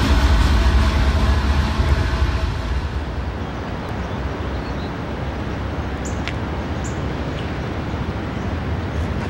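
CSX diesel freight locomotives rumbling past at close range, loudest for the first two to three seconds. After that comes a quieter steady rumble from an Amtrak diesel passenger train approaching head-on from a distance, with a few faint high chirps.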